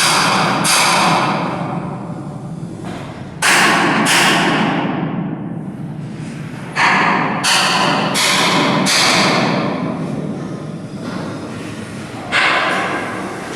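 Sharp metal strikes on steel, like hammer blows during ship block assembly, coming in clusters of two or three. Each rings out for about a second.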